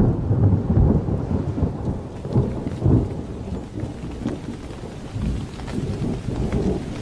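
Thunderstorm: deep rolling thunder rumbling in several swells over steady rain, with the thunder loudest in the first few seconds.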